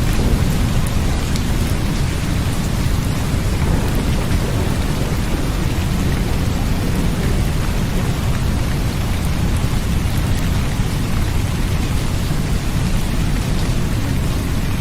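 Steady, loud rain ambience: an even hiss of falling rain with fine drop patter and a continuous deep rumble underneath.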